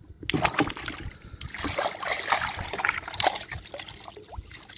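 Water splashing and trickling unevenly while a caught trevally is handled and released over the side of a jet ski, busiest in the first three seconds and then thinning out.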